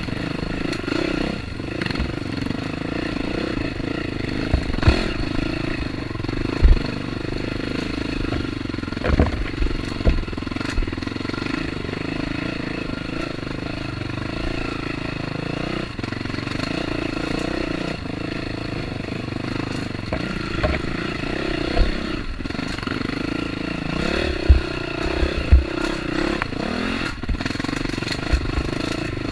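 Dirt bike engine running through a trail ride, its pitch rising and falling with the throttle, with scattered short low thumps and clatter.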